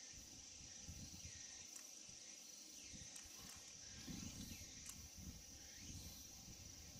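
Insects trilling in one steady high-pitched note, with a few faint bird chirps over a low rumble of wind on the microphone.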